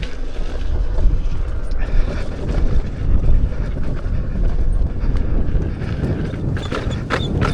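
Wind buffeting the microphone and the rumble of an electric unicycle being ridden over a dirt trail, with a few knocks near the end.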